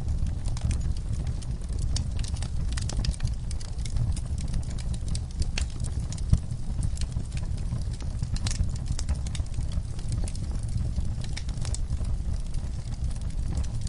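Wood fire burning in a fireplace: a steady low rumble of flames with frequent, irregular sharp crackles and pops, one louder pop about six seconds in.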